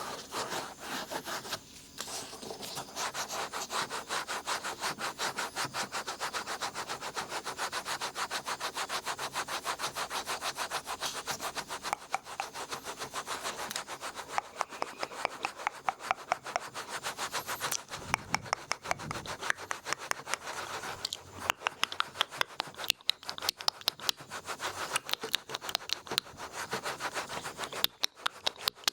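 Large ear pick scraping and rubbing in an ear for ASMR ear picking, in quick, even strokes about four a second. The strokes turn sharper and louder about halfway through.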